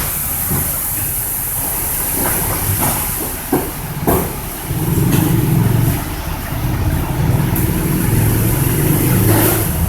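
A car's steady low mechanical hum under a high hiss, with a couple of sharp clicks about three and a half and four seconds in; the hum grows louder about five seconds in.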